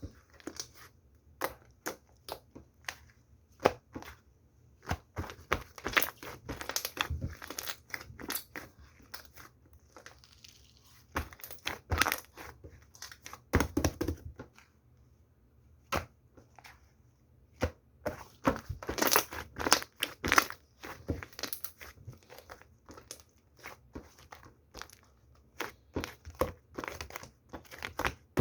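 Irregular crackling, crunching and crinkling, like something being crushed or crumpled by hand, coming in clusters of sharp clicks with short pauses between them.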